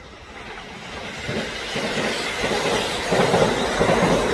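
Kintetsu electric train approaching and passing, growing louder over the first two seconds, with its wheels clattering rhythmically over the rail joints.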